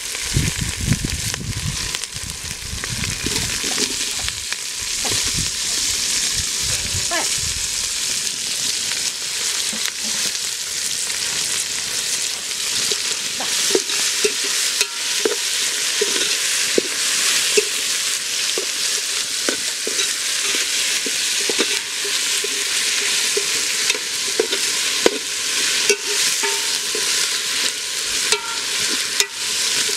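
Onions, green chillies and tomatoes sizzling in oil in an aluminium pot while a steel ladle stirs, clinking and scraping against the pot. There are dull thumps in the first several seconds, and the scraping ticks come more often in the second half.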